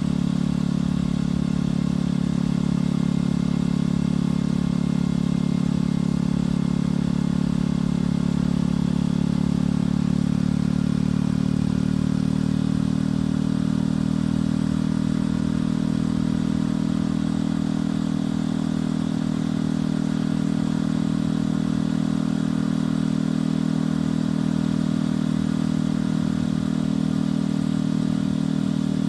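Motorcycle engine and exhaust running steadily at cruising speed, with road and wind noise; the engine note shifts slightly about halfway through.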